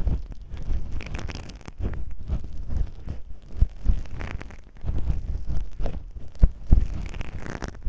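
Masking tape rubbed and scratched against a microphone in imitation of ear cleaning: irregular crinkly rustling and scraping, with short dull thumps now and then.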